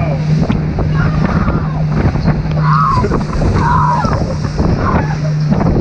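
Boat motor running with a steady low hum while the hull pounds through rough chop, with sharp knocks from the hull hitting waves, water rushing past and heavy wind on the microphone.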